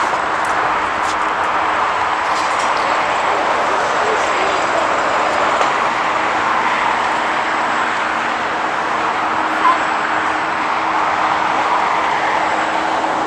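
Jet airliner engines running with a steady rushing noise and a faint constant hum underneath.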